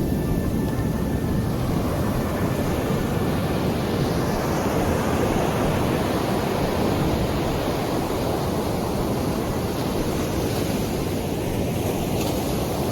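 Sea surf: waves washing onto the shore in a steady, unbroken rush.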